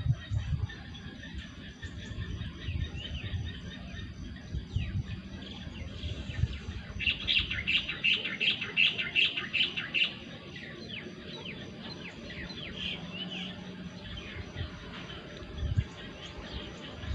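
Small birds chirping and calling in short, quick notes, with a rapid, louder run of chirps about seven seconds in that lasts some three seconds. A few low thumps sound underneath.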